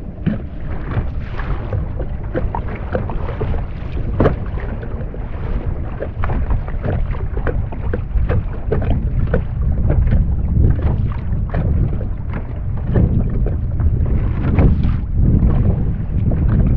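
Wind buffeting the microphone with a steady low rumble, over a scatter of small water splashes and knocks against a kayak.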